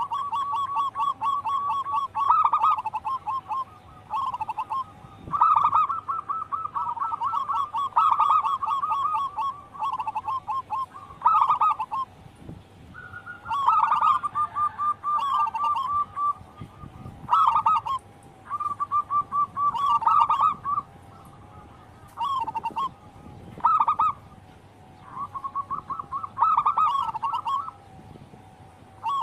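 Zebra doves (perkutut) calling: repeated phrases of rapid, trilled cooing, each a second or two long, with short pauses between.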